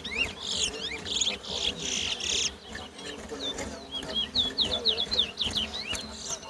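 Towa towa (chestnut-bellied seed finch) singing in a song contest: quick sliding whistled notes, a brighter buzzy stretch about one to two and a half seconds in, and a fast run of down-slurred notes in the second half.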